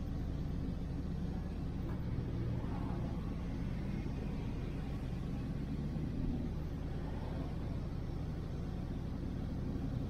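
Steady low engine drone of a 1968 Chevelle Nomad wagon's LS-swapped V8, running as the car creeps along at low speed.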